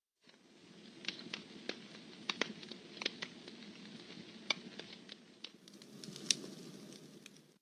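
Campfire crackling: irregular sharp pops and snaps, one or two a second, over a low steady hiss of burning wood.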